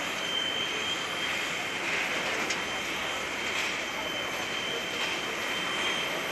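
Airbus A320's CFM56 jet engines running steadily just after landing: a wide even rush with a high whine held on one pitch.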